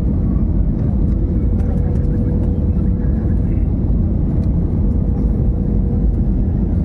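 Airliner cabin noise in flight: a steady low roar from the engines and airflow, with a faint constant hum.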